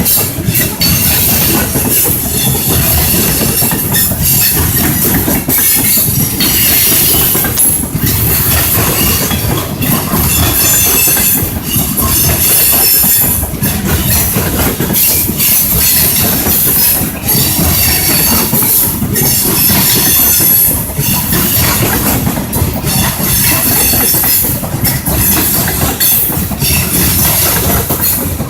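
Railway train rolling along the track: steady rumble with repeated wheel clacks over the rail joints and a high-pitched squeal from the wheels coming and going.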